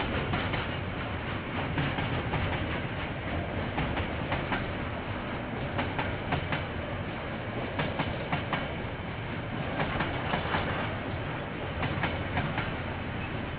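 KiwiRail train rolling past, a steady rumble with wheels clicking irregularly over the rail joints, heard through a security camera's microphone that cuts off the high end.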